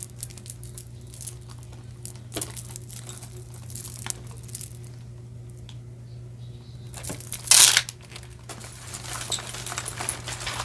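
Plastic packaging crinkling and small clicks as costume jewelry is handled and sorted, with one louder rustle about seven and a half seconds in, over a low steady hum.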